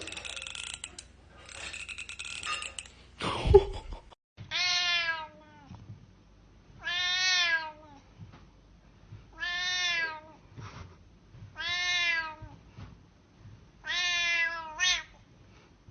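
A cat meowing over and over: six drawn-out meows about two seconds apart, each rising then falling in pitch, the last two in quick succession. Before them come rustling and a single loud thump.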